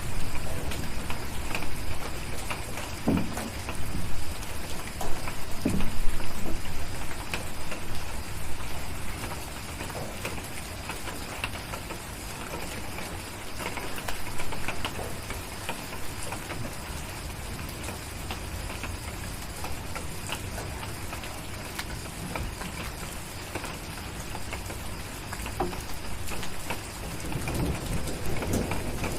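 Steady rain with scattered small pops and crackles from a fireplace. A low rumble of thunder dies away over the first several seconds, and another begins to build near the end.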